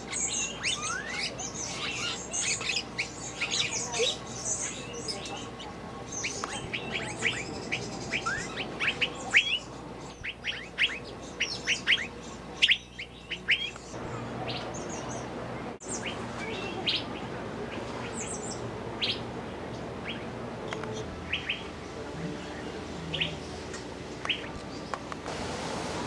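Many small birds chirping: quick, high chirps and short falling notes, thick and overlapping for the first half, then fewer and more spaced out after a brief break about sixteen seconds in.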